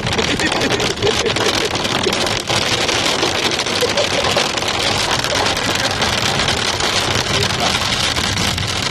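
Heavy rain drumming on the roof and windshield of a moving vehicle, heard from inside the cabin over steady road noise.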